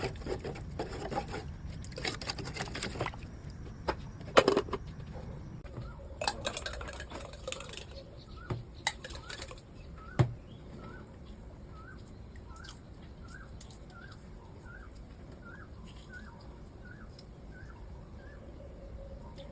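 Kitchen clatter of utensils and cookware, a run of clicks and knocks with a sharp knock about four seconds in and another about ten seconds in. Then a bird calls one short chirp over and over, about one and a half a second, for some eight seconds.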